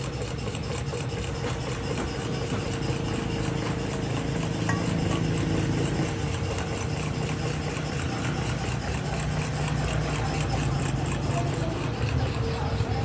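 Steady machine noise: a motor's constant hum under a continuous rasping hiss.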